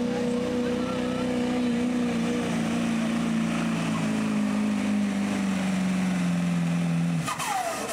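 Diesel pickup truck engine running hard under a pulling sled, its note held and then slowly sagging in pitch. About seven seconds in the throttle is cut, the engine note drops away and a high whine falls in pitch.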